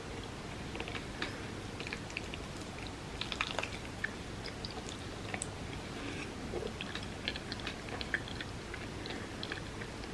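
Close-miked eating sounds of someone chewing soft, creamy rice pudding: wet chewing with small mouth clicks and smacks scattered throughout, over a steady background hiss.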